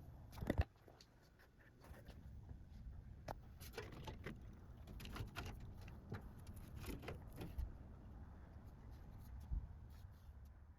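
Faint scattered clicks and light knocks of computer parts and case panels being handled during PC assembly, over a low steady rumble.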